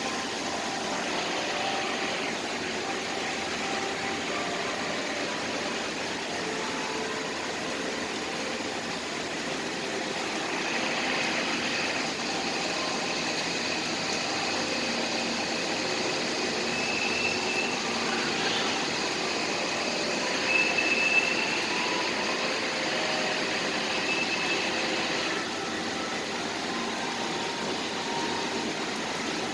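Steady city traffic noise. A louder hissing passage from about ten to twenty-five seconds in carries a thin high whine.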